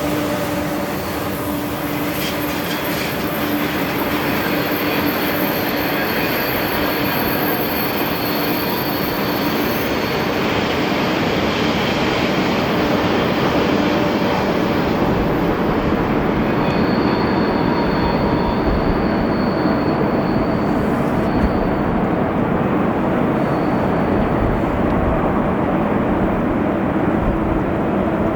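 Freight train rolling by: a continuous steady rumble of wagon wheels on the rails, with faint steady tones on top.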